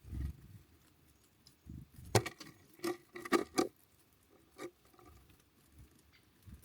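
Birds pecking and moving about on a bird feeder: about five sharp taps and knocks in quick succession, two to four and a half seconds in, with a soft low thump at the start.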